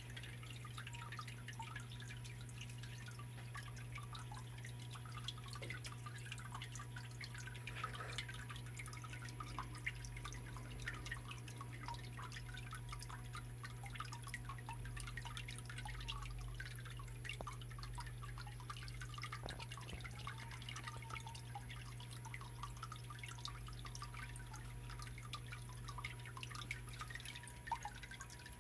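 Small artificial waterfall in a stone garden pond trickling and dripping over the rocks: a steady patter of many small drips and splashes over a steady low hum.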